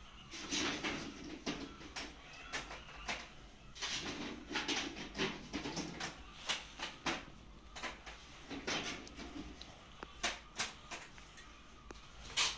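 Chickens calling in a poultry shed, in three longer stretches, over irregular clicks and knocks.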